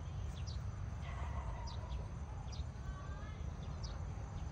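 Small birds chirping, short high chirps every second or so, over a steady low rumble.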